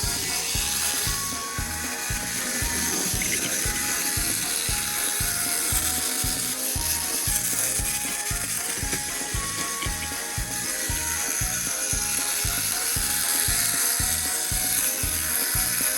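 Toy engine running on wooden railway track: a small geared motor ticking and whirring, with a regular low knock about two or three times a second.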